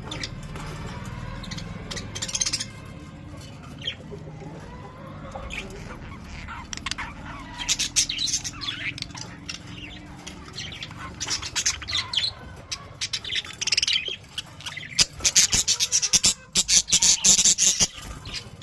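A colony of budgerigars chattering: many short chirps, warbles and squawks overlapping, growing busier and louder about three-quarters of the way through.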